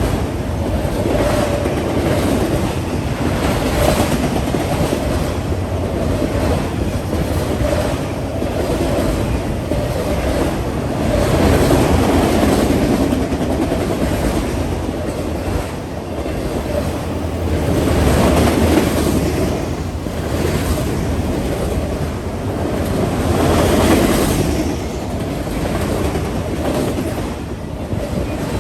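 A train rolling past close by, its railroad cars going by continuously with faint repeated wheel clicks; the noise swells louder three times, about twelve, eighteen and twenty-four seconds in.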